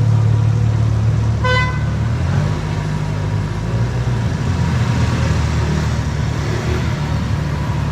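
Steady low rumble of a car driving on city streets, with one short car-horn toot about one and a half seconds in.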